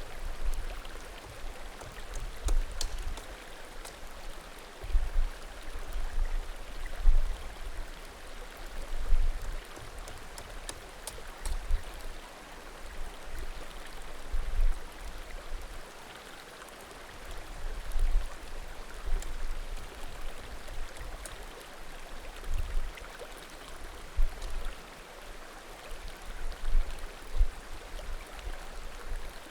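Small mountain creek babbling steadily, with a few faint pops of burning firewood and recurring low rumbling surges.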